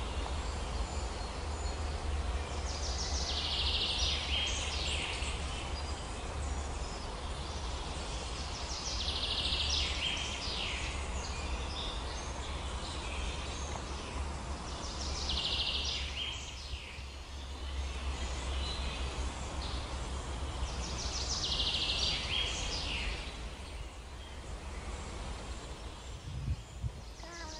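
A songbird repeats the same short song phrase four times, about six seconds apart, over a steady low rumble.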